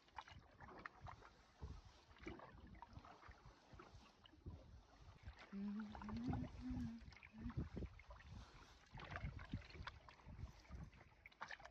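A canoe being set off and paddled: faint, irregular knocks of paddle and gear against the hull with soft water sounds.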